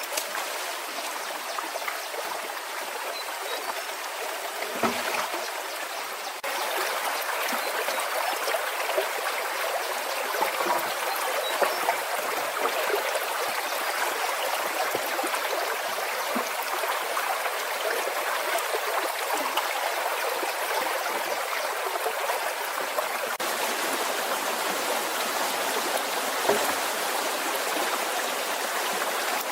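Steady rush of flowing water, like a stream, with a few faint knocks; it gets a little louder about six seconds in.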